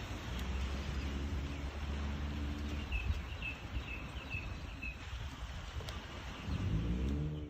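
Outdoor ambience: a steady low rumble, with a small bird giving a run of about six short, high chirps midway through. A low hum rises near the end.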